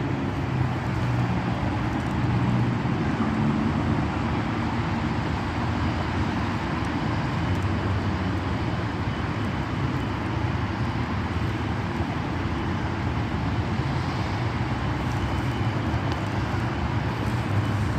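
Steady outdoor background rumble, like passing road traffic, with no distinct events.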